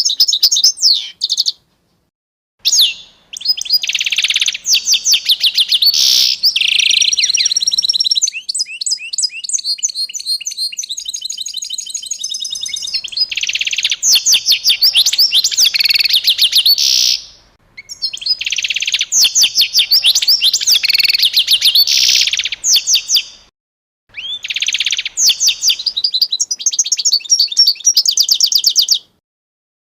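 A songbird singing long, fast phrases of rapidly repeated high notes and trills, with short silent gaps between the phrases.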